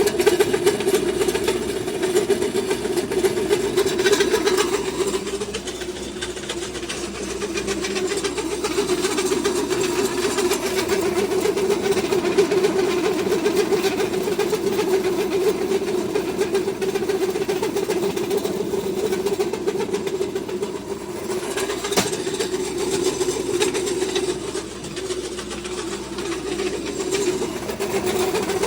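Pellet feed mill running under load, pressing mixed grain into animal feed pellets: a steady mechanical drone that dips in loudness briefly about five seconds in and again near the end.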